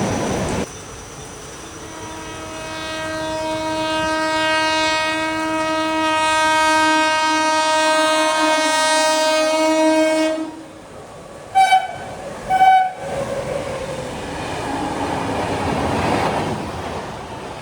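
Train horn sounding one long blast of about nine seconds, then two short toots about a second apart. The noise of a train running on the tracks is heard at the start, cuts off under a second in, and swells again near the end.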